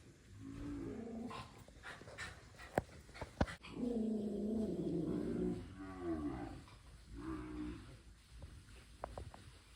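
Cattle mooing: about four low calls, the longest and loudest in the middle, one falling in pitch after it. Two sharp clicks come just before the long call.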